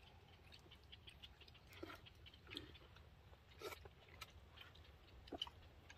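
Faint chewing and crunching as people eat food by hand, with about five short, sharp clicks spread through.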